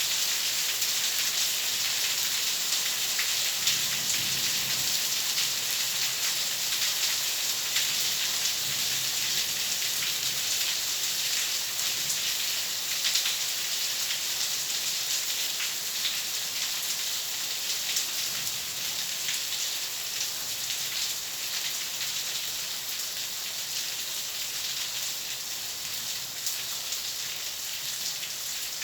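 Steady rain falling: a dense, even hiss of drops with scattered sharper drop ticks, easing slightly toward the end.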